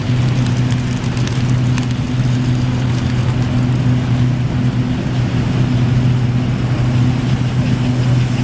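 Gilbert American Flyer S-gauge model train running on AC track power: a steady low electrical hum with a light clatter of wheels on the track.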